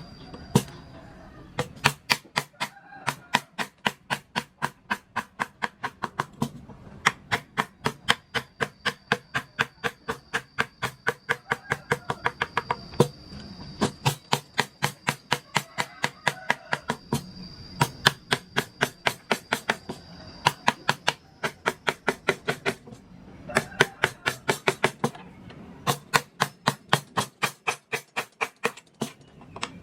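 Mallet tapping a wood-carving chisel in quick, even runs of about five strikes a second, with short pauses between runs.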